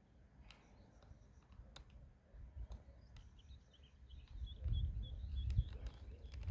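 Small birds chirping in quick, short high notes that come thickest in the second half, with a few sharp clicks and a low rumble that swells about two-thirds of the way in.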